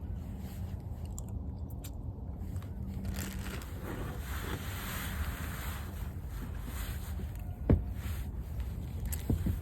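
Wind rumbling on the microphone, with a patch of hiss in the middle and a few faint clicks. A sharp thump comes about three-quarters of the way in and a smaller one near the end.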